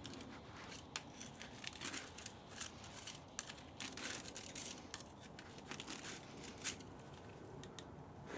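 Hand work on a scrapped electric spa motor: irregular sharp snips and clicks, a few a second, of metal parts such as copper windings being cut and pulled apart.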